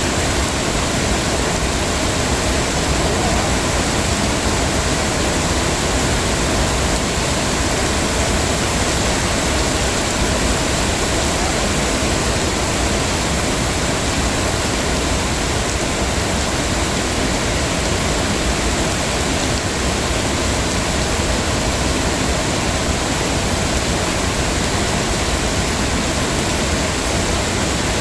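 Heavy rain falling steadily, a dense even hiss with no single drops or gusts standing out.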